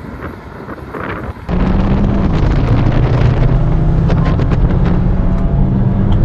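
Wind buffeting the microphone, then from about a second and a half in a turbocharged Volkswagen car's engine at full throttle, heard loud inside the cabin. It drones steadily, dropping in pitch once shortly after it comes in.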